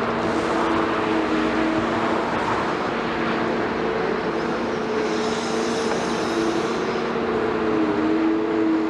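Diesel engine of a Liebherr 946 hydraulic excavator running steadily at working speed, its pitch shifting slightly as the load changes. A brief higher hiss comes midway.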